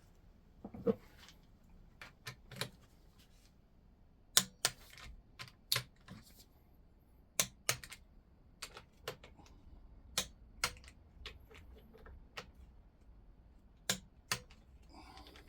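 Sharp metal clicks and taps, a dozen or so spread irregularly, some in quick pairs: hand tools on the Reliant 850 engine's big-end bolts, a click-type torque wrench and socket tightening them.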